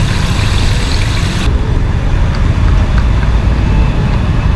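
Road traffic with a steady low engine rumble. A higher hiss cuts off suddenly about a second and a half in, and the rumble carries on.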